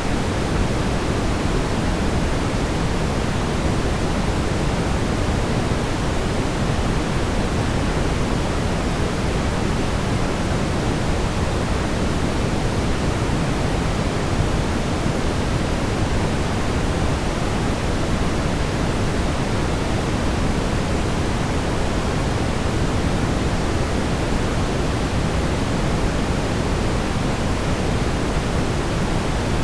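Steady, unchanging brown noise: an even rumbling hiss, heaviest in the low end.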